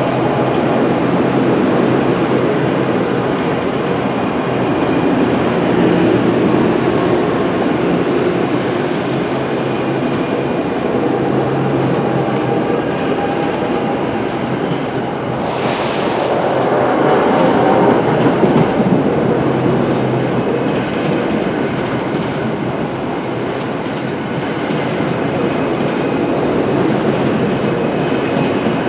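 NJ Transit Arrow III electric multiple-unit cars rolling past close by: a steady rumble of wheels on the rails with a low hum under it in the first half. About halfway through there is a brief high-pitched hiss.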